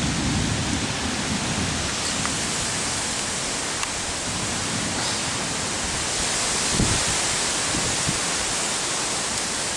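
Heavy rain and strong winds of a severe thunderstorm: a steady loud rushing hiss, with low rumbling wind gusts buffeting the microphone near the start and again about seven seconds in.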